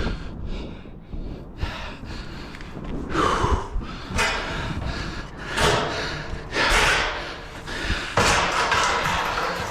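Long metal roofing panel being handled and slid into place: irregular rumbling, scraping and thumps of sheet metal, in several noisy swells.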